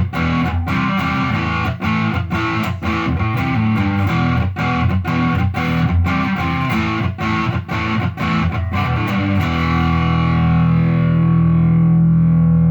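Electric guitar, a Telecaster with a Seymour Duncan Hot Rails in the neck position, played through an amp without pedals: a quick picked riff of notes and chords, then a chord left to ring out from about nine and a half seconds in.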